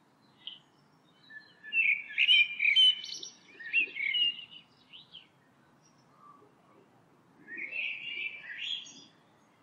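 A songbird singing quick, twittering phrases: a long one from about a second and a half in, and a shorter one near the end.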